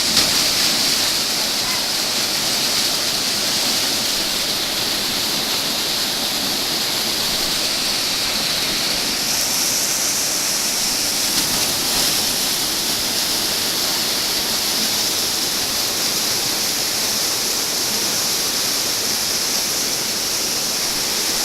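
Waterfall pouring steadily into its pool: a continuous, even hissing rush of falling white water.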